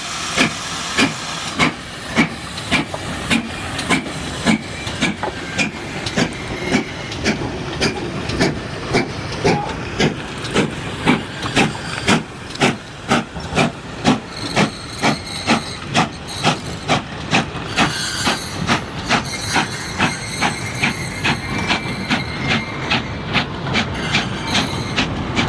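Steam locomotive working, its exhaust chuffing in a steady rhythm of about two beats a second over a continuous hiss of steam.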